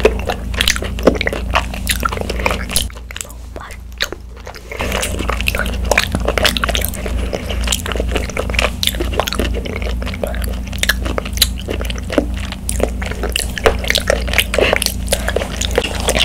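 Close-miked chewing of chewy tapioca pearls from bubble tea: a dense run of wet, squishy mouth clicks and smacks, easing off briefly about three seconds in before picking up again.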